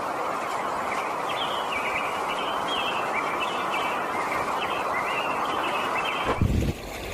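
Birds chirping in short repeated calls over a steady background hiss, with a brief low thump near the end.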